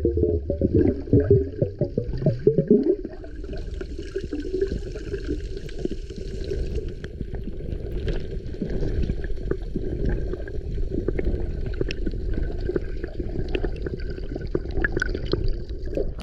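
Water gurgling and bubbling with scattered small clicks, busier and louder for the first three seconds, then a steadier gurgle.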